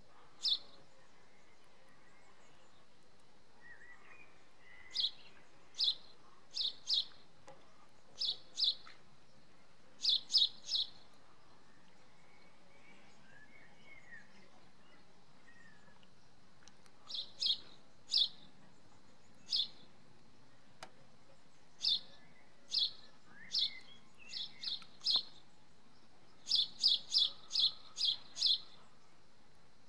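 A small bird chirping: single short, sharp, high chirps at irregular intervals, sometimes in quick runs of three to six, with fainter bird twittering now and then between them.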